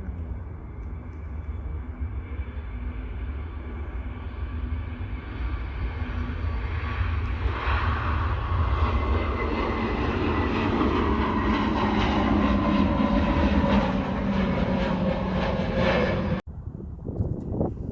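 Jet airliner passing close by. Its engine noise builds up, then its whine falls in pitch as it goes past, and the sound cuts off suddenly near the end.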